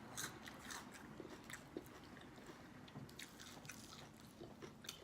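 A person chewing crunchy food close to the microphone: soft, irregular crunches and mouth clicks.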